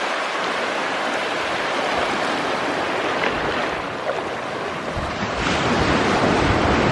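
Ocean surf washing onto the beach, a steady rush of breaking waves. From about five seconds in, wind rumbles on the microphone.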